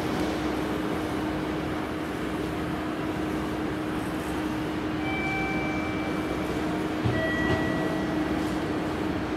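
Steady electrical hum and running noise of electric trains at a covered station platform, with a few brief, faint high tones about halfway through.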